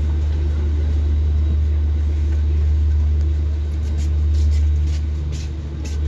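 Steady low rumble inside an air-conditioned double-decker train coach pulling slowly out of a station, with a faint hum above it and a few light ticks in the second half.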